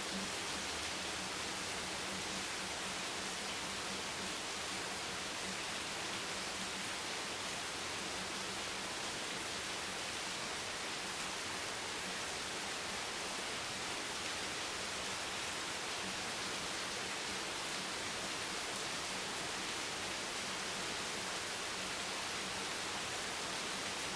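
Steady, dense rain hiss with no single drops or gusts standing out, like rain used as white noise.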